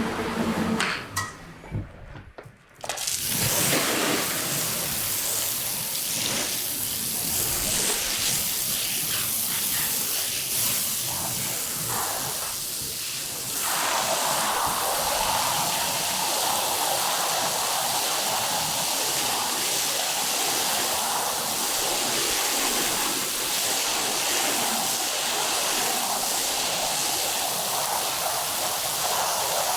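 Water spraying onto a carpet during rinsing: a steady hiss and splash that changes in tone about halfway through.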